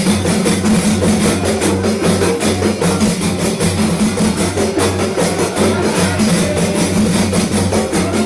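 Javanese terbang frame drums played together in a fast, dense, interlocking rhythm: deep open tones under a run of sharp strokes, with no break.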